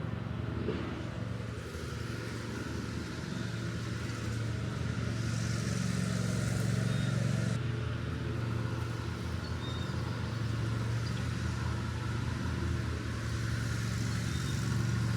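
A steady low motor hum, like an engine or generator running, throughout.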